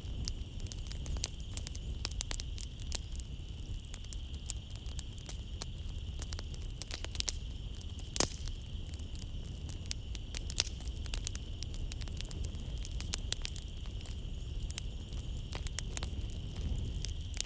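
Wood fire crackling in a fireplace: a steady stream of sharp pops and snaps over a low rumble of flame, with one louder pop about eight seconds in. A steady high chirring of night insects runs underneath.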